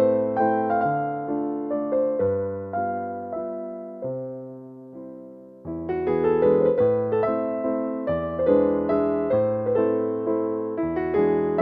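Calm piano music: single notes and chords struck and left to ring and fade. About halfway it thins to one fading note, then comes back fuller with low bass notes under the melody.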